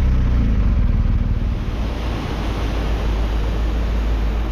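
Wind rushing over the microphone of a moving motorcycle, with the engine's low drone underneath, clearer in the first second.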